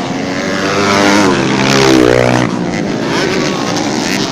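Racing motorcycle engine at high revs passing close by, loudest about halfway through, its pitch dropping as it goes past.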